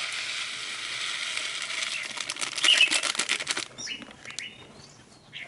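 Dry pelleted bird food pouring out of a packet into a container: a steady rustle of small granules for about three and a half seconds, thinning into a few scattered clicks as the pour ends.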